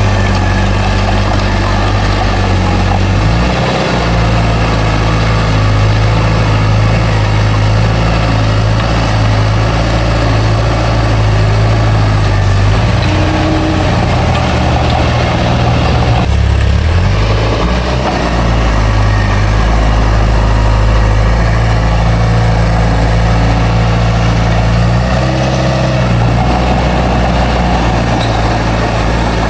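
Bulldozer's heavy diesel engine running steadily; its engine note shifts briefly three times, about a quarter of the way in, midway and near the end.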